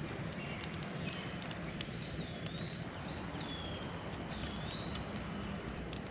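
A bird singing: a few slurred, gliding whistles about two seconds in and again near five seconds, over a steady low background with scattered faint crackles from a freshly lit campfire.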